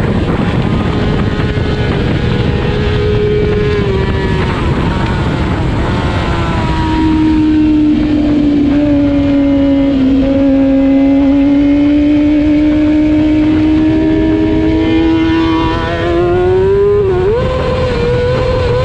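Race motorcycle engine running hard, heard onboard over a dense rush of noise. The engine pitch holds, falls about a third of the way in, climbs slowly, then dips and jumps up near the end.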